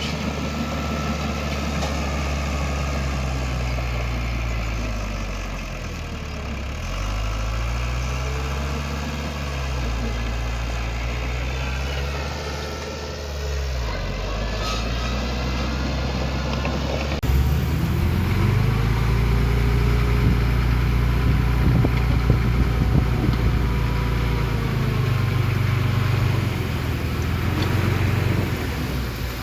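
Heavy earthmoving machine's diesel engine working, its pitch repeatedly rising and falling as it is throttled up and down under load. The sound changes abruptly about seventeen seconds in, then runs louder and rougher.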